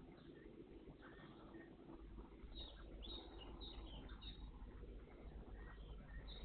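Faint short chirps of small songbirds, a cluster of high calls about halfway through and more near the end, over a low steady rumble.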